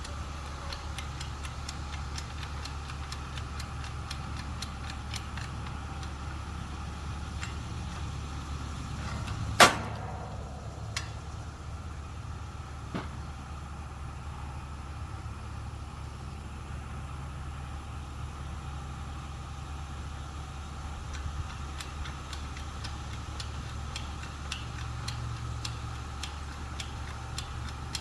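Homemade manual wood splitter built from an engine hoist's hand-pumped hydraulic ram, working on a log: a run of light clicks, with one loud sharp crack about ten seconds in as the wood gives way, and two smaller cracks soon after. A steady low rumble sits underneath.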